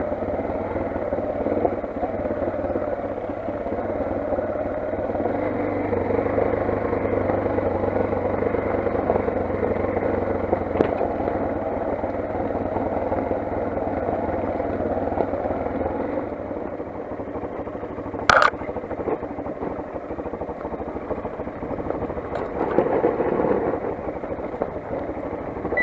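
Motoland XR 250 single-cylinder dirt bike engine running steadily while riding, easing off a little about two-thirds of the way in. There is one sharp knock just after that and a short louder rise near the end.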